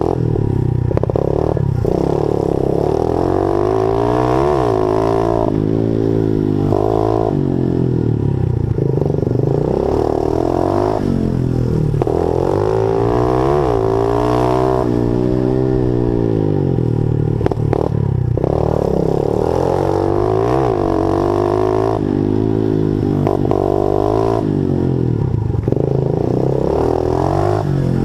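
Honda 50cc four-stroke pit bike engine being ridden hard, its revs climbing and dropping again every couple of seconds as the throttle opens and closes.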